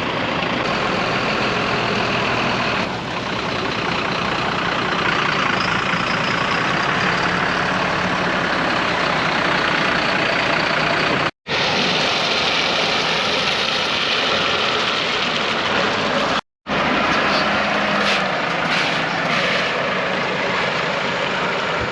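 Heavy diesel lorry engines running steadily, with a dense, continuous mechanical noise, broken twice by a brief dropout.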